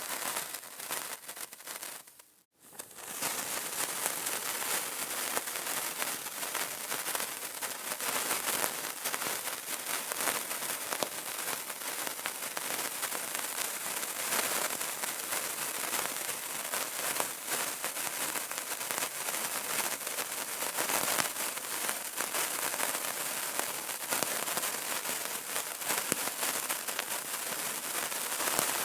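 Burning candle crackling: a dense, continuous patter of tiny pops and sputters. It cuts out for a moment about two and a half seconds in, then comes straight back up.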